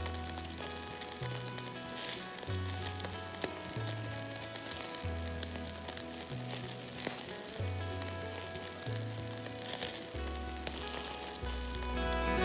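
Hot oil sizzling steadily as food deep-fries, with a few louder spits, over background music with a stepping bass line.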